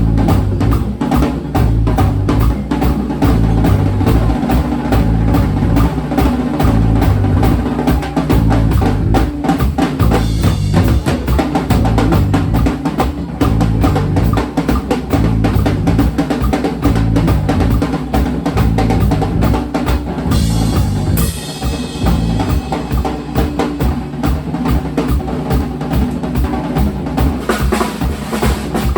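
Band music driven by a drum kit, with bass drum and snare keeping a steady beat under a bass line. A brighter, hissy wash comes in about twenty seconds in.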